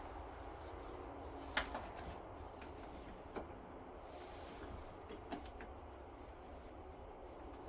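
Three faint, sharp clicks of a hand tool or metal parts being handled, about two seconds apart, over a low steady background hum, while the battery terminal connections are worked on.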